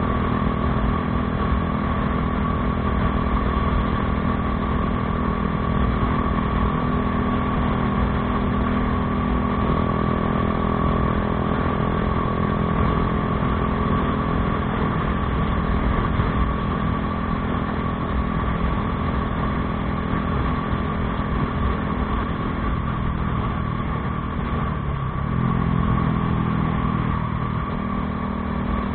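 Bajaj Dominar 400's single-cylinder engine running through an aftermarket Akrapovič exhaust, holding a steady note; near the end the pitch dips briefly and then settles again.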